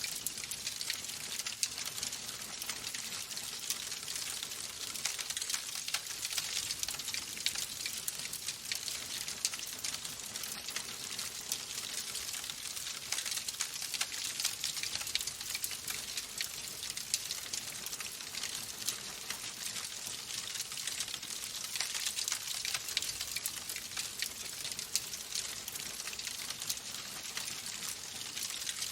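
Wood fire in a fireplace crackling steadily, with a constant stream of small sharp pops and snaps over a soft hiss.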